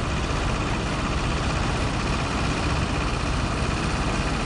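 Heavy tractor-trailer engine running steadily with a deep low rumble.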